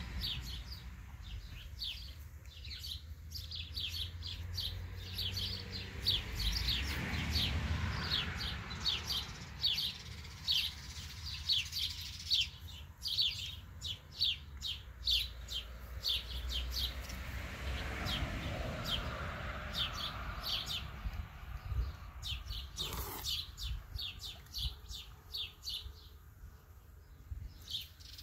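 Small birds chirping, a rapid, irregular string of short high notes for most of the stretch, thinning out near the end, over a low steady rumble.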